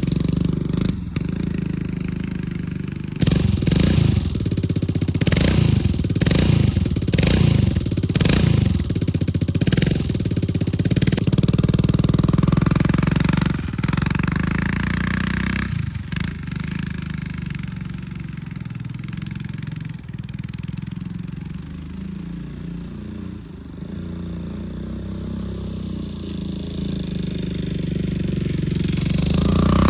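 Kawasaki KLX dirt bike's single-cylinder four-stroke engine being ridden at light throttle. It revs in a string of short bursts for the first ten seconds or so, then runs steadier, fading and growing louder again near the end as the bike moves away and comes back.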